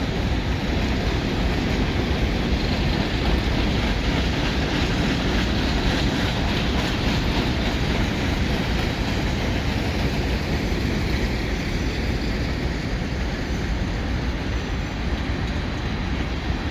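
Loaded freight cars of a moving freight train rolling past: a steady rumble of steel wheels on the rails.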